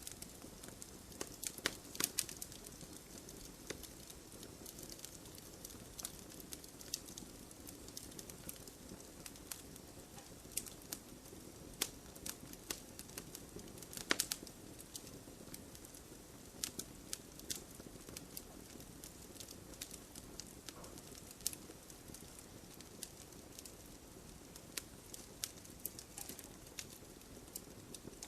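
Wood fire crackling and popping: a steady soft hiss, with irregular sharp pops and snaps, the loudest about two seconds in and about halfway through.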